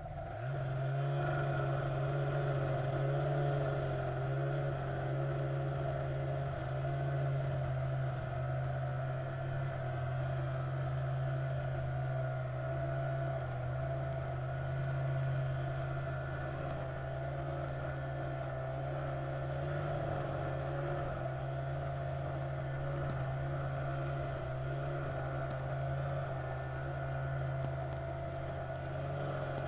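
A vehicle engine running at a steady, unchanging pitch, as if cruising at constant speed. It comes in abruptly right at the start.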